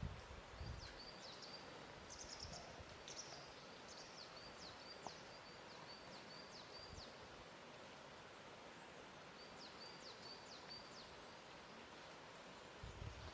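Faint lakeshore ambience: a steady, even hiss with a few soft low thumps near the start, and a small bird chirping repeatedly in high, short notes and quick downward chirps through much of it.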